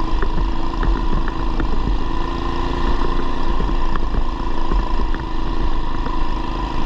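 Coleman BT200x mini bike's swapped-in 212cc single-cylinder four-stroke engine running steadily on the ride.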